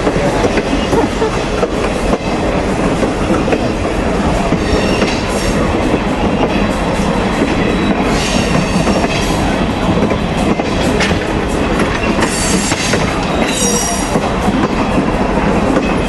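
Passenger train running on the track: a steady rumble of wheels and rails, with brief high-pitched wheel squeals about halfway through and twice more near the end.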